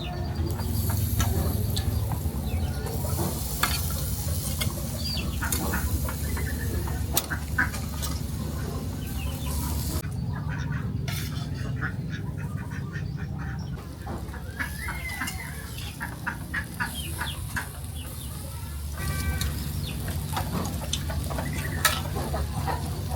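Chickens clucking, with short calls scattered throughout, over a steady hiss that fades about halfway through.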